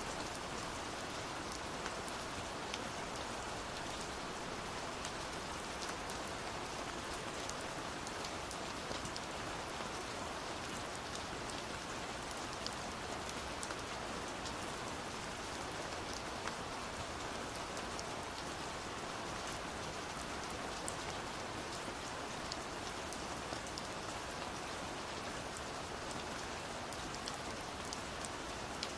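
Steady rainfall, an even hiss with scattered individual drop ticks, unchanging throughout.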